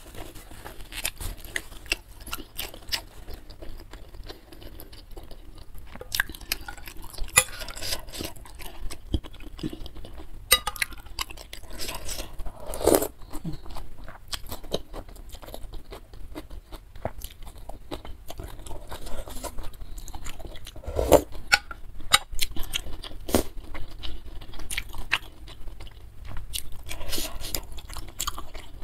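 Close-miked chewing and biting of beef-tendon meatballs and glass noodles, full of wet smacks and crunches, with noodles sucked up from a spoon and a spoon and fork now and then knocking against the bowl.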